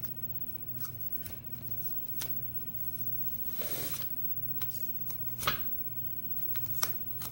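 Light metallic clicks and rustling from a padlock and its key being handled, with a sharper click about five and a half seconds in, over a faint steady hum.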